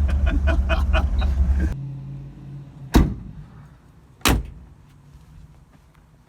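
A 1957 Ford Thunderbird's V8 running, then cutting out abruptly under two seconds in, followed by two car doors slamming shut about a second and a half apart.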